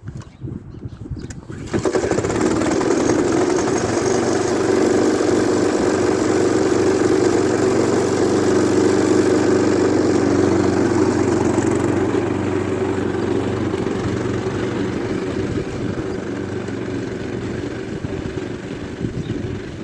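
Efco LR riding lawn mower's engine starting about two seconds in, then running steadily, a little quieter from about twelve seconds in.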